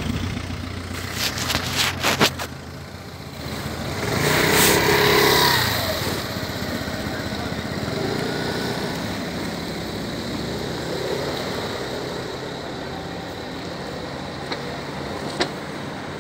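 Road traffic: a vehicle passes close about four seconds in, its noise swelling and fading, over a steady traffic hum. A few sharp clicks come about a second in, and two fainter ones near the end.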